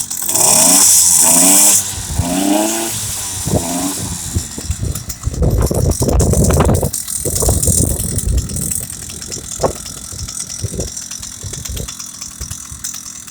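Two-stroke engine of a motorised bicycle being started and revved, with several rising and falling revs in the first few seconds, over a loud hiss at the start. Rattling and clattering follow, loudest around the middle, then settle into scattered clicks and knocks.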